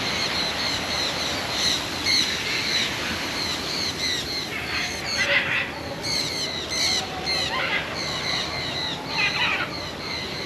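Many birds calling in a walk-through aviary: a steady run of quick high chirps repeating several times a second, with louder harsh squawks breaking in about halfway through and again near the end.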